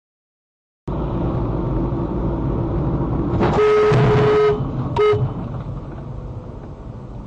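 Car horn honking over road and engine noise: one long blast of about a second, then a short toot, with the driving noise running under it and slowly fading.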